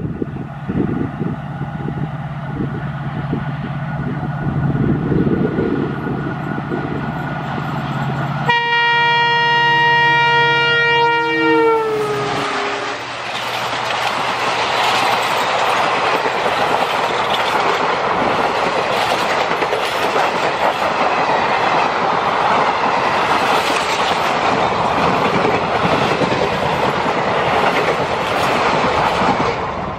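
An Indian Railways diesel locomotive approaches with a steady low engine rumble, then sounds a long horn blast, about four seconds, starting roughly a third of the way in; the horn drops in pitch as the locomotive passes. Its passenger coaches then rush past at speed with continuous wheel-on-rail clatter.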